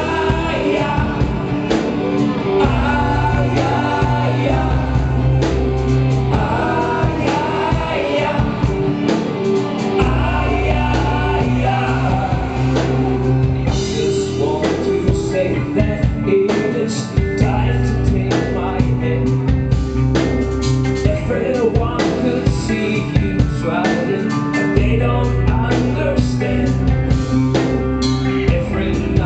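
Live rock band playing loudly, with bass, drums and guitar, and a voice singing over it in parts.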